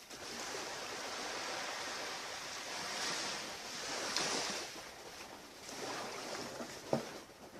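Ocean surf washing on the beach, a steady hiss of waves that swells and eases over a few seconds. A brief knock sounds near the end.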